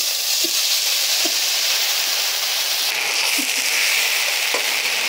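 Instant noodles and vegetables sizzling in hot oil in a pan, a steady frying hiss, with a few light knocks and scrapes of a wooden spoon stirring them.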